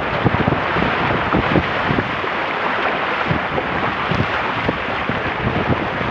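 Wind buffeting the microphone in irregular low gusts over a steady rushing hiss of water, heard from aboard a Weta trimaran under sail.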